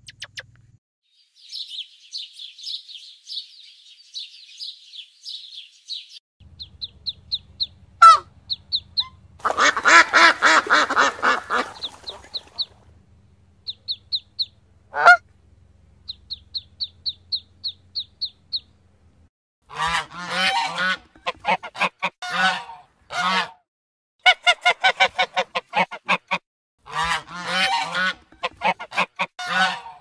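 Muscovy ducklings peeping in quick runs of short high cheeps, with a longer, louder call about ten seconds in. In the last ten seconds geese honk in repeated bursts.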